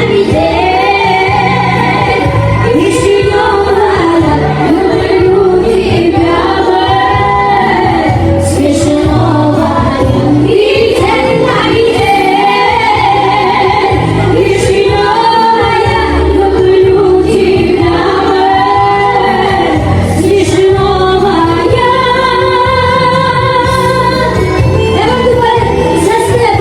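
A woman singing a Russian-language song over a remixed electronic backing track with a steady bass beat.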